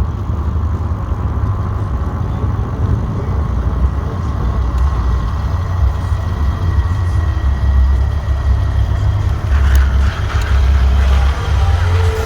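Big-rig diesel truck engine running with a deep, steady rumble as the truck pulls in, growing louder in the second half.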